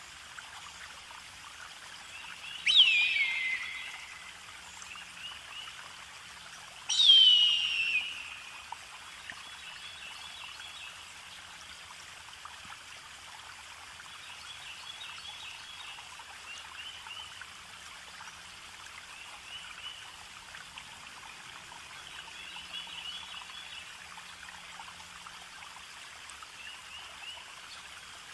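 Running water with bird calls. Two loud calls sweep sharply down in pitch, about 3 and 7 seconds in; after them come fainter, repeated chirps over a steady hiss of water.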